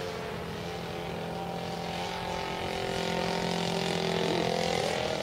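The 50cc engine and propeller of a Seagull Edge 540 radio-controlled plane running steadily, its pitch wavering slightly and growing a little louder near the end.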